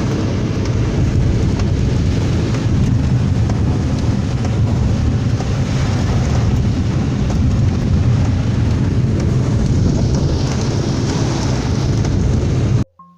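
Heavy thunderstorm rain and gusting wind in a steady loud rush with a deep rumble. It cuts off suddenly near the end.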